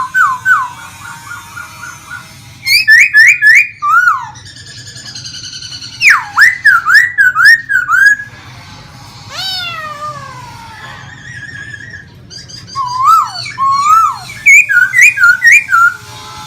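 Caged laughingthrush (khướu) singing: loud phrases of clear whistled notes, rapid runs of repeated down-slurred notes and long falling glides, each phrase lasting one to two seconds with short pauses between. A faint low hum runs underneath.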